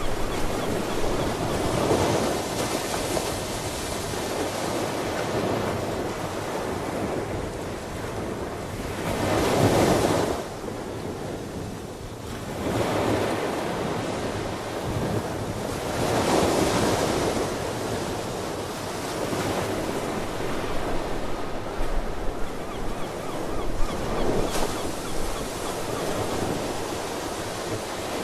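Ocean waves breaking and washing in, rising in a louder surge every six to seven seconds, about four times, over a steady rush of surf.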